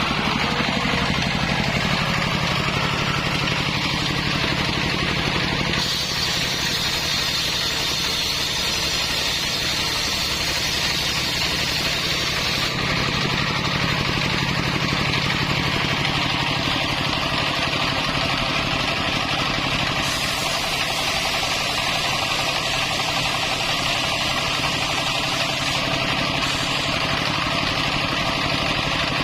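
Circular saw running steadily while sawing hard coconut-palm timber. Its sound shifts in tone about six, thirteen and twenty seconds in, as a hiss in the high register comes and goes.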